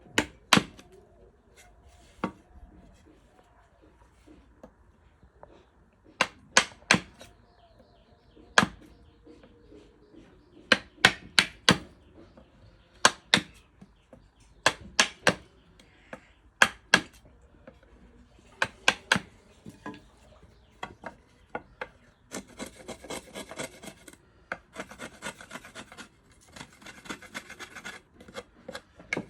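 Hand work on wood: sharp knocks, mostly in quick groups of two or three, then about two-thirds of the way through, several long rasping strokes of wood being filed or rubbed.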